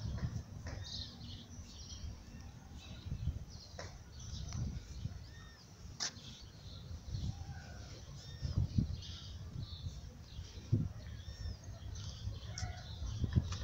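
Several small birds chirping, short high arching calls coming and going and overlapping, over a low rumble.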